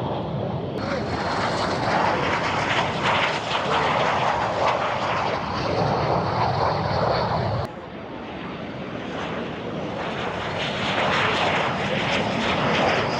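Jet aircraft engine noise from a display flight, a loud, even roar that changes abruptly about one second in and again about eight seconds in.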